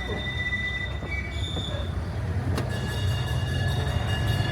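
Sightseeing road train running: its engine gives a steady low rumble, with thin high-pitched squealing from the running gear, a couple of tones early on and several at once from about halfway through.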